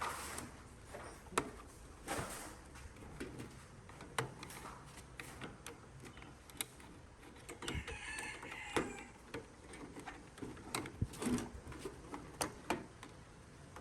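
Irregular small clicks and knocks of parts and hand tools being handled, with a short scraping sound about eight seconds in.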